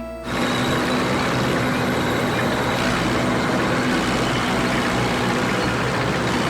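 A heavy vehicle engine running steadily, a loud, even machine noise with no breaks.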